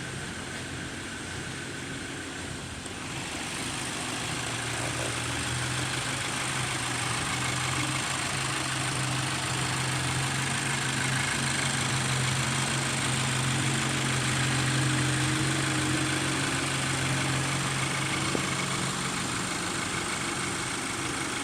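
Subaru Impreza's flat-four boxer engine idling steadily, getting a little louder about three seconds in.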